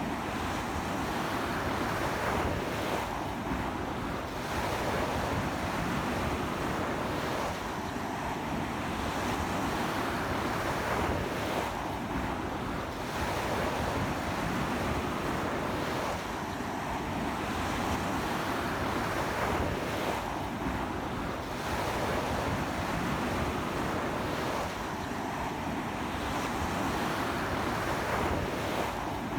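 Ocean surf washing steadily onto a beach in a strong sea wind, a continuous rush of breaking waves that swells and eases about every four seconds, with wind buffeting the microphone.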